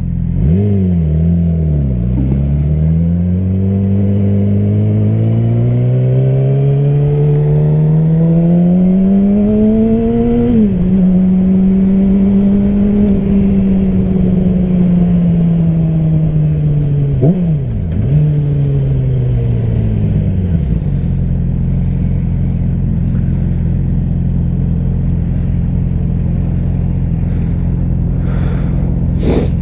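Motorcycle engine pulling through a gear with the revs climbing, then a sudden drop in pitch about ten seconds in as it shifts up. It cruises, gives a quick rev blip a little past halfway, then falls to a steady idle for the last third.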